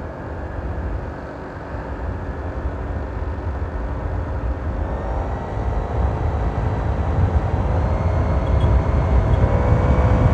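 Modified Honda PCX scooter accelerating: the engine and CVT belt drive build to a whine that rises in pitch and grows louder from about halfway, over a steady low rumble.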